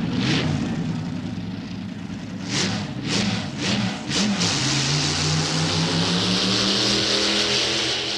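Loud engine revving in several short blips, then held at a higher, slowly rising speed with a strong hiss over it from about halfway through.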